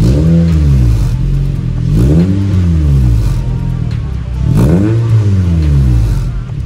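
Honda City Hatchback's engine blipped three times from idle, each rev climbing and dropping back within about a second and a half, heard at the exhaust during a sound test of its new custom muffler.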